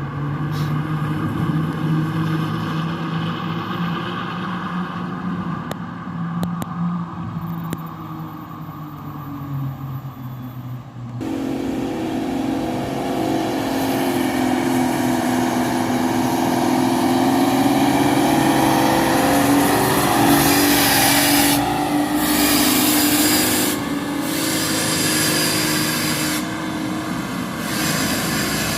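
Engines of loaded dump trucks running as they pass, a steady low drone. About eleven seconds in it changes abruptly to a louder, higher engine note, with noisy rushes of sound between about twenty and twenty-four seconds in.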